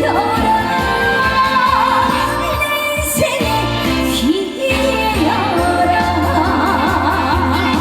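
A woman singing a trot song live with vibrato over full band accompaniment with a steady bass.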